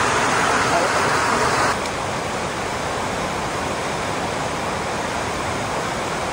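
Steady rush of creek water flowing, a little louder for the first second and a half.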